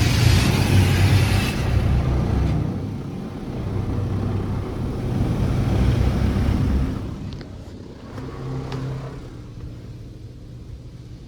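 Touchless automatic car wash at work around the car: a high spray hiss that stops about a second and a half in, then a low rumble that fades about seven seconds in, leaving a quieter hum.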